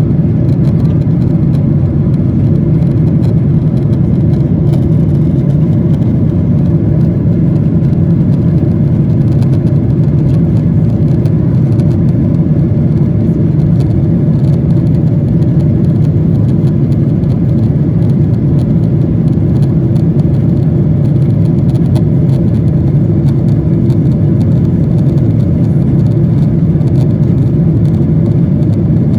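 Steady, loud, low drone of engine and airflow noise inside an airliner's cabin, holding even without any change.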